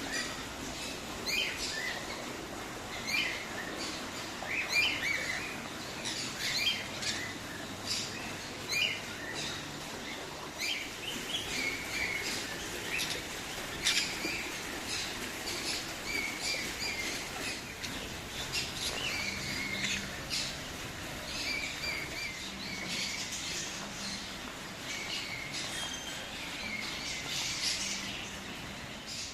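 Many birds chirping and calling over one another in short, repeated calls, many of them sliding down in pitch.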